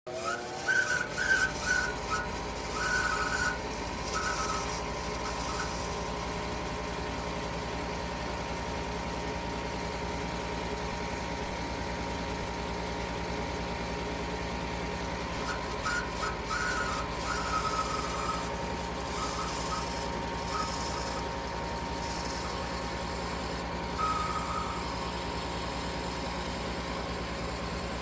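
A furnace draft inducer motor spins up over the first second, then runs with a steady whine. Short higher chirps come and go, early on and again later; the motor is failing.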